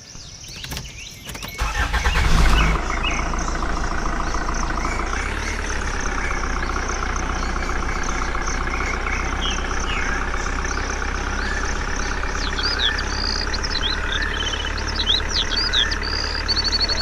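A tractor engine starts about two seconds in and settles into a steady idle. Birds chirp over it near the end.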